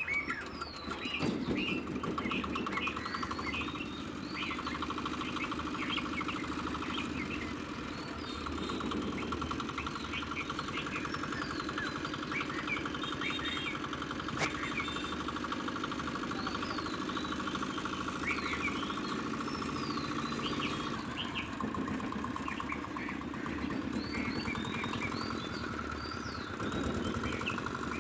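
R175A 5 HP single-cylinder water-cooled diesel engine running steadily, with birds chirping repeatedly over it.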